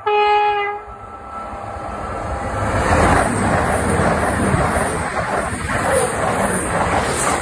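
CrossCountry Voyager diesel train sounding a short single-note horn blast of under a second as it approaches, then passing close by at speed with a loud rush of wheel and air noise that builds and stays loud from about three seconds in.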